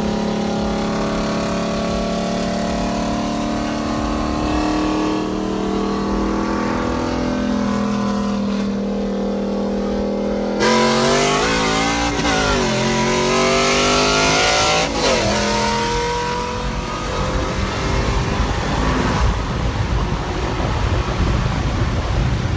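Car engine running with a steady, slowly drifting note, then about ten seconds in it gets suddenly louder and revs up and down several times before settling into a rougher, noisier running sound.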